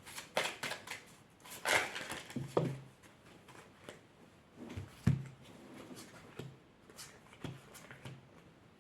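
Oracle cards being handled: quick rustles and light clicks of card stock, thickest in the first few seconds, with a few soft low knocks later on.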